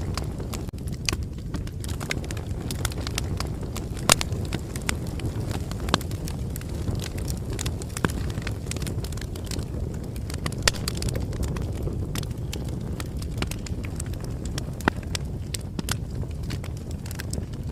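Bonfire crackling: a steady low rumble of burning with frequent small pops and a few sharper snaps, about four seconds in, near the middle and past the middle.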